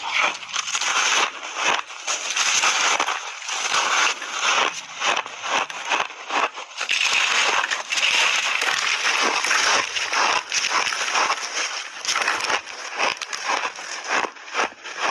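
Close-up chewing of big chunks of refrozen ice: continuous crunching and crackling, dense with sharp cracks, as the ice is bitten and ground between the teeth.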